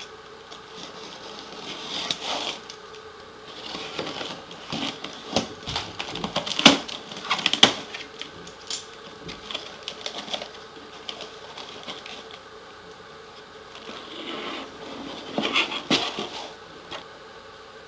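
Handling noise from a hard ABS plastic RC car body and its packaging: irregular rustling with clicks and taps of stiff plastic, busiest in the first half and again near the end, over a faint steady hum.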